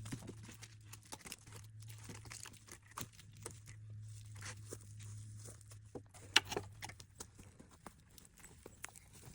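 Small fire of stacked sticks crackling and popping irregularly as it catches, with one sharp pop about six seconds in. A low steady hum runs under it and stops near the end.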